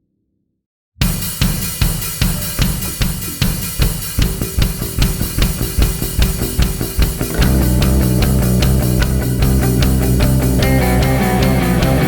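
Opening of a rock song: after about a second of silence, a drum kit starts a steady beat. Around seven seconds in, the rest of the band comes in with bass, and the music gets louder and fuller.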